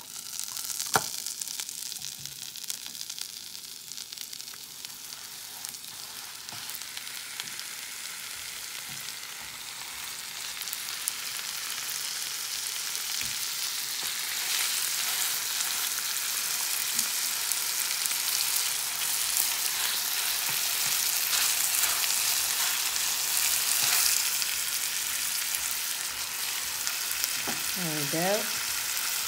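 Butter sizzling in a frying pan, then minced lamb frying in it: a steady hiss that grows louder about halfway through as the meat goes into the hot fat.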